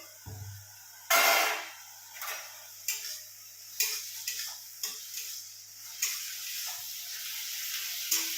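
Onion paste frying in mustard oil in a pan, with a sudden loud sizzle about a second in, then a spatula scraping and knocking against the pan about once a second over a steady sizzle that grows from about six seconds in.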